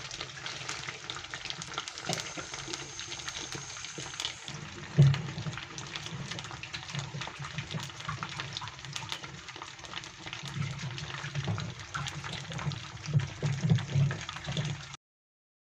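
Batter-coated straw mushrooms deep-frying in oil in a pan, already golden: a steady crackle of many small pops and spits. One louder knock about five seconds in, and the sound cuts off shortly before the end.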